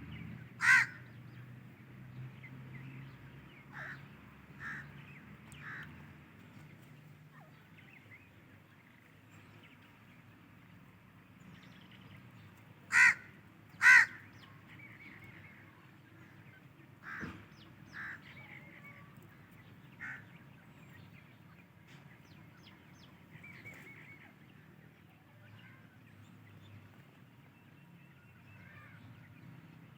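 Short, sharp calls from francolins (teetar). One loud call comes just under a second in and two more come about a second apart midway through. Fainter short calls are scattered between them.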